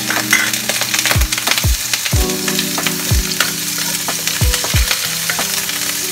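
Pork pieces sizzling as they fry in hot oil in a nonstick wok, stirred with a wooden spatula. Quiet background music with steady low notes and a deep beat plays underneath.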